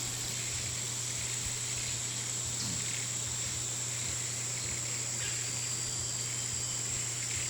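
Steady insect chorus: a constant high-pitched trill over a low hum.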